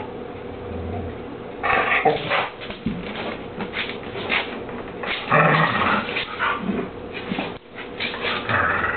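A pet dog making a string of short, noisy vocal sounds, starting a couple of seconds in and coming at irregular intervals.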